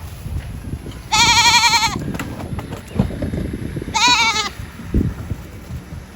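A bleating goat or sheep gives two high, wavering bleats: a long one about a second in and a shorter one about four seconds in. Low rumbling noise with a couple of dull thumps runs underneath.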